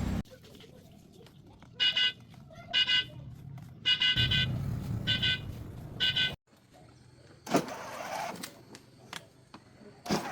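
Car horn on a restored mini car giving about six short beeps, one of them a quick double, over a low engine hum. The sound then cuts off abruptly and is followed by a few sharp clicks.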